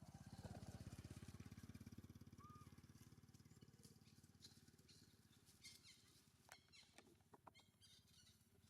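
A faint small engine running with a fast, even pulse, loudest near the start and fading away over the first few seconds, followed by a few soft clicks.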